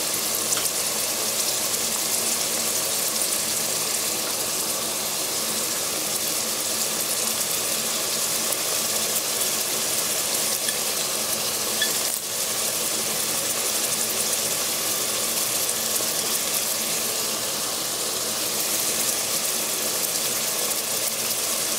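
Peas, onions and ginger-garlic paste sizzling steadily in a pot with a little water, with a short drop about halfway through.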